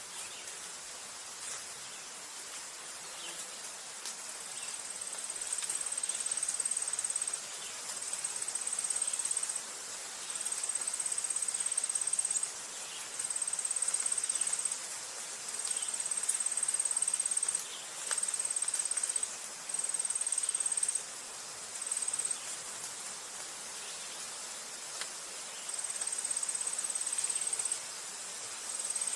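A high, thin insect trill, repeated in phrases of one to two seconds with short breaks, over a steady background hiss. The trilling starts about four seconds in.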